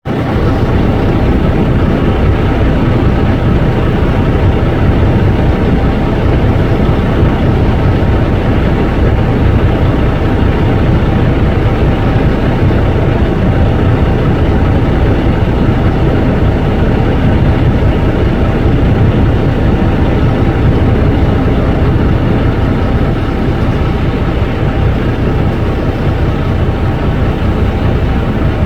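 Tractor engine running loud and steady.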